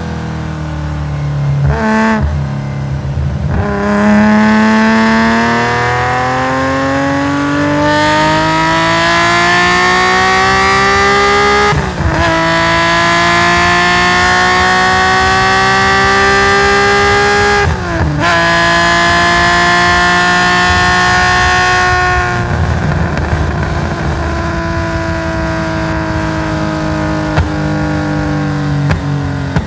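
Nissan S20 twin-cam straight-six of a race-tuned Skyline 2000GT-R, heard onboard through a stainless equal-length exhaust, pulling hard with a rising pitch. Quick upshifts on the sequential gearbox break the note about 12 and 18 seconds in. About 22 seconds in, the driver backs off and the engine settles to a lower, steadier note.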